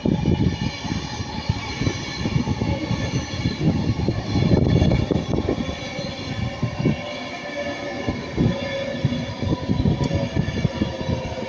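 Passenger train passing close by: a loud rumble full of rapid wheel knocks over the rail joints, with a steady whine above it.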